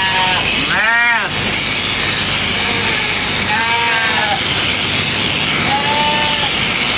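Sheep bleating three times, each call a short wavering bleat, over a loud, steady background hiss.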